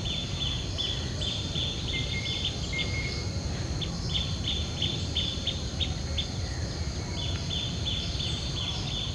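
Caged songbirds chirping, a quick run of short high calls about three a second that pauses twice, over a low steady rumble of market background noise.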